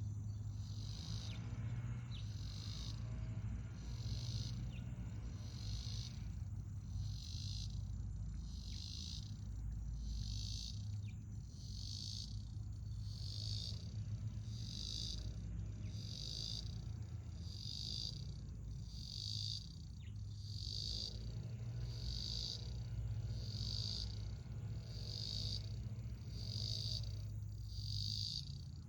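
An insect chirping steadily in a high-pitched pulse about once a second, over a steady low hum.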